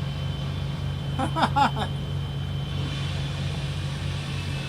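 A steady low engine hum runs throughout, with a thin high whine. About a second in there is a short, loud cry with a bending pitch.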